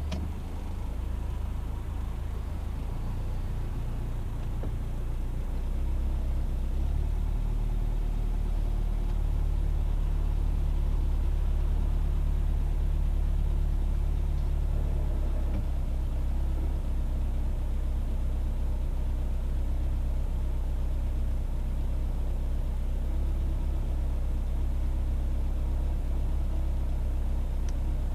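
Citroën DS's four-cylinder engine and road noise while driving: a steady low rumble that grows louder about six seconds in and then holds.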